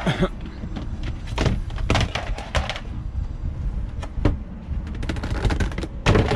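Irregular knocks and clunks of hard objects being picked up, moved and set down, over a steady low rumble.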